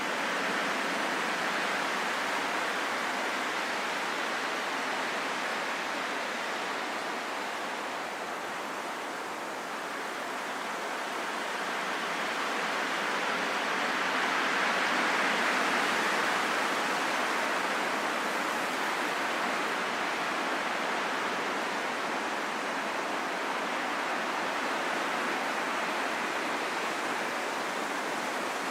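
Steady rain falling, an even hiss with no separate drops standing out, easing slightly about a third of the way in and swelling a little in the middle.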